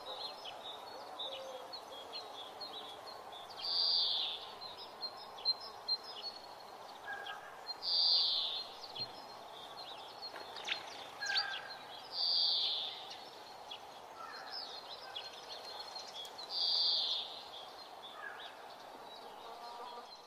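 Birds calling over a steady outdoor background hum: one loud, high call about a second long repeats roughly every four seconds, with many short high chirps in between.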